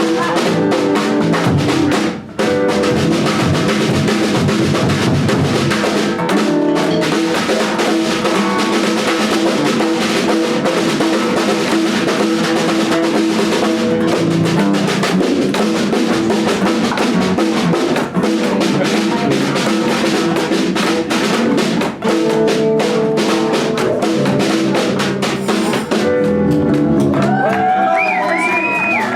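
Live band playing an instrumental passage, a full drum kit driving a steady beat under sustained pitched instruments, with a brief break about two seconds in. Sliding high notes come in near the end.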